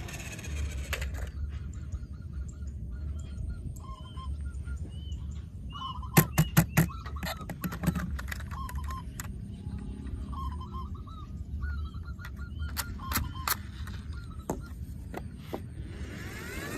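Short honking calls repeated on and off, with a quick run of sharp clacks about six seconds in and a few more near thirteen seconds.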